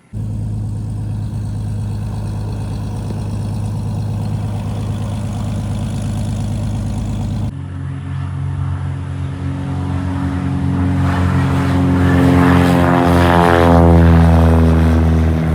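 Private plane's engine running loud and steady; after a cut about seven seconds in, a plane's engine grows louder as it takes off and passes close, peaking near the end.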